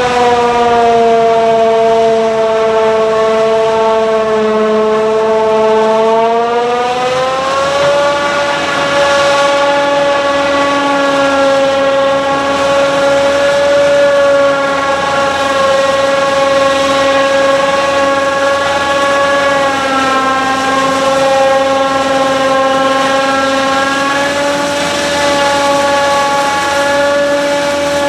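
Heavy diesel machinery running hard under steady load, giving a loud, sustained tonal drone. The pitch rises about seven seconds in, then holds, with a short dip about twenty seconds in.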